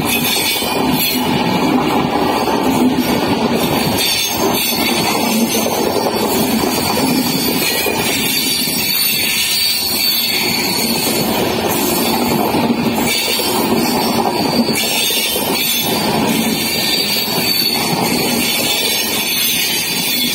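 Indian Railways passenger coaches running past close by: a steady rumble and rattle of steel wheels on the rails, with brief louder clatters now and then as the wheels cross rail joints.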